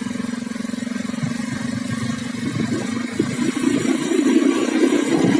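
A vehicle engine running, a steady low hum at first that turns rougher and louder about halfway through.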